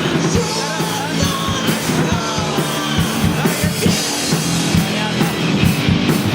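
Live rock band playing, with a steady drum-kit beat under guitars and gliding melodic lines.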